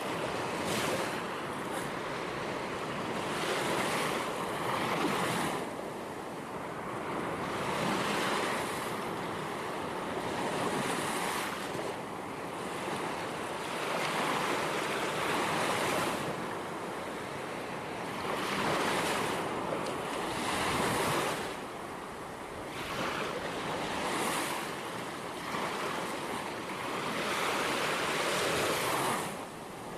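Gentle ocean waves breaking and washing on a shore, in a steady wash of surf that swells and eases every few seconds.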